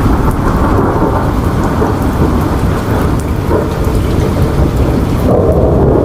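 Thunderstorm: steady rain under a continuous low rumble of thunder.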